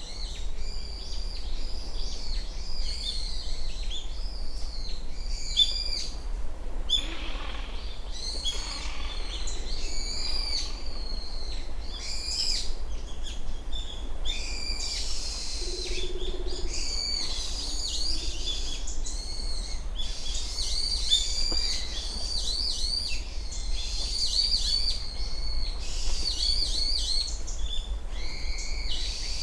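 Small songbirds calling in a dawn chorus: many high-pitched chirps and short, quickly repeated calls overlapping throughout, over a low steady rumble.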